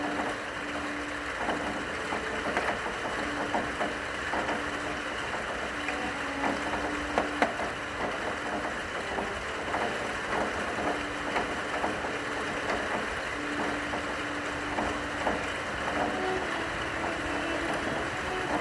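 Steady rain with scattered sharp drop hits, under a single long-held low cello note that fades in and out every few seconds.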